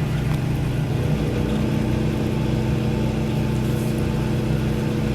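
Steady low mechanical drone of an engine or motor running, with a hum tone that grows stronger about a second in.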